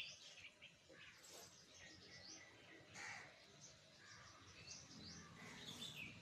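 Faint birds chirping in the background, many short scattered calls over a low, even background hum.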